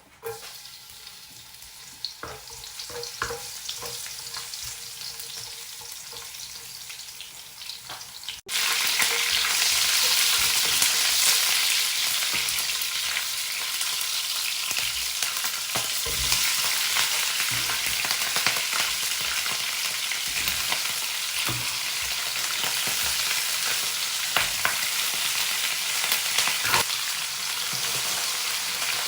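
Food frying in a pan, a steady sizzle with the occasional click and scrape of a utensil stirring it. The sizzle is fainter at first and jumps suddenly louder about a third of the way in.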